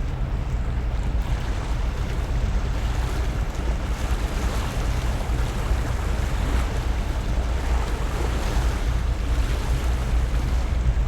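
Steady low rumble of a feeder container ship coming into harbour, with an even wash of wind and water noise over it.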